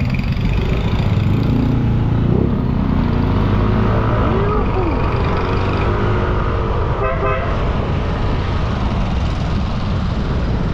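Motorbike running with a steady low rumble while riding through heavy city traffic, with vehicle horns honking around it and a quick series of short horn toots about seven seconds in.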